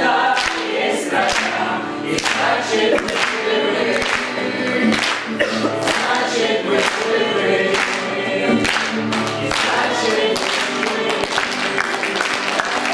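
A group of voices singing together as a choir, with sharp strokes marking a steady beat.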